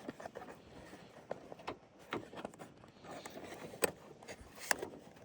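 Scattered light clicks and taps of hands working a small plastic retaining clip onto a door lock rod inside a truck door, with two sharper clicks near the end.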